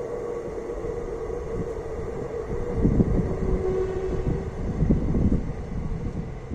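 PESA 620M diesel railcar running, a steady whine over a low rumble that swells about three and five seconds in.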